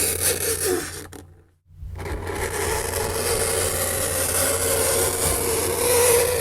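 Fingernails scraping across a chalkboard: a continuous harsh scratching with a steady squeal running through it. It stops briefly after about a second, then starts again.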